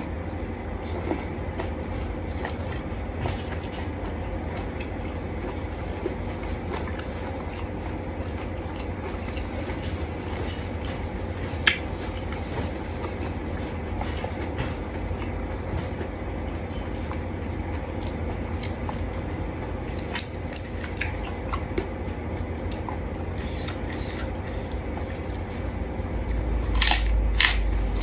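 A person eating close to the microphone: chewing and biting mouthfuls of a seafood salad of blanched shrimp and squid, with scattered small clicks and a few louder ones near the end, over a steady low hum.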